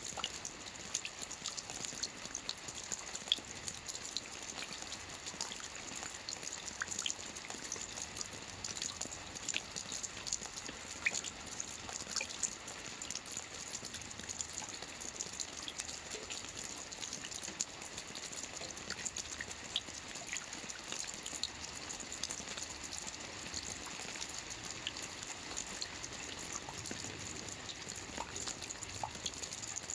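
Soft rain falling steadily on a roof: an even hiss dotted with many small, scattered drop taps.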